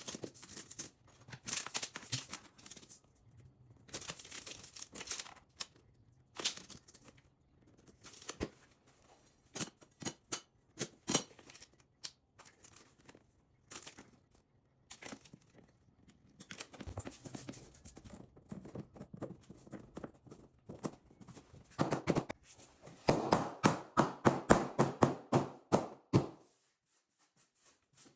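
Vinyl flooring being cut for a corner: short scraping cutting strokes and clicks, with a louder run of rapid strokes about three quarters of the way through.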